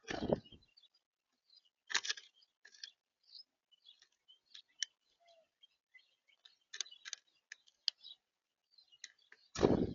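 Small birds at a feeder: scattered short high chirps mixed with sharp ticks and taps, with a louder thump at the start and another near the end.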